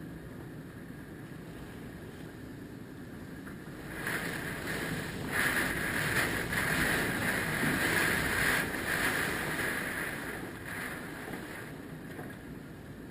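Hurricane wind blowing steadily. A strong gust comes in about four seconds in, rises and falls, and dies back to the steady blow near the end.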